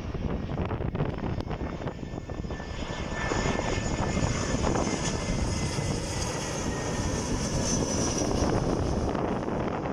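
Airliner passing low overhead on its landing approach: the engine noise swells from about three seconds in, is loudest shortly before the end, then begins to fade, with a faint falling whine early on.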